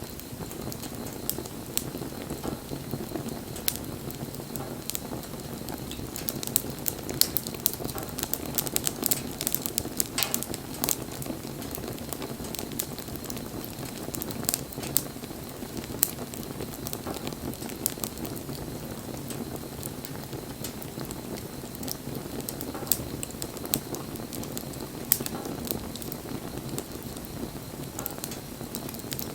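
Wood campfire burning: a steady low rush of flame under frequent sharp crackles and snaps.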